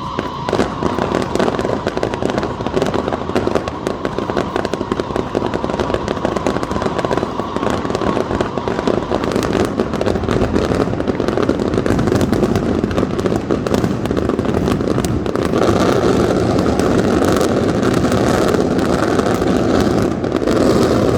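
Fireworks display finale: a dense, continuous barrage of rapid bangs and crackles, getting louder over the last few seconds.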